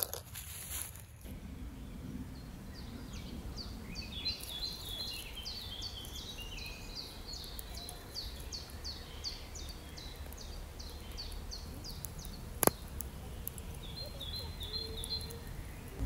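Open-air ambience with a low steady rumble. A bird sings a long run of quick, high, descending notes, about three a second, then a few short chirps near the end. A single sharp click comes about three-quarters of the way through and is the loudest sound.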